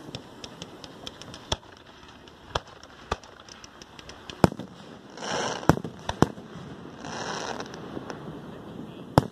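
Fireworks display: a fast run of small crackling pops, then separate sharp bangs of fireworks going off, the loudest about four and a half seconds in and just before the end. Two short spells of hissing come in between.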